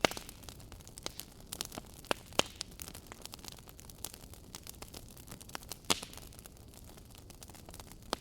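Wood fire in a fireplace crackling: a steady hiss with frequent small pops and a few louder snaps, one right at the start, two a little after two seconds in, and one near six seconds.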